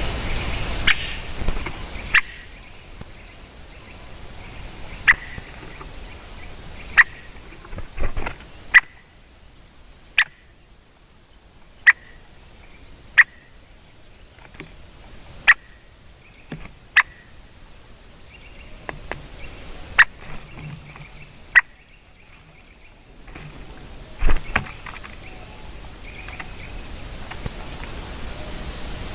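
Female lesser spotted woodpecker making a series of sharp single ticks, each short and separate, coming irregularly about every one to two seconds. A steady hiss is heard over the first two seconds.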